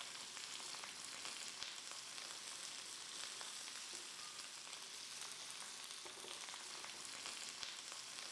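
Glass noodles and vegetables sizzling in a cast-iron wok as they are stirred with a spatula: a soft, steady frying crackle with a few light clicks.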